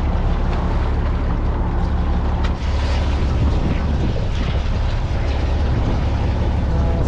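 Fishing boat's engine running with a steady low hum, under a wash of wind and sea noise, with one sharp click about two and a half seconds in.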